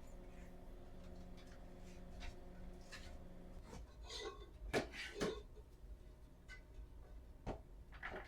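Quiet household sounds: a steady low hum that cuts off a few seconds in, followed by a few light knocks and clicks, two of them close together in the middle.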